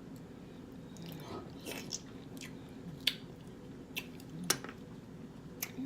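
Close-up eating sounds of a person chewing seafood-boil food, with sharp, wet mouth clicks every half second to a second.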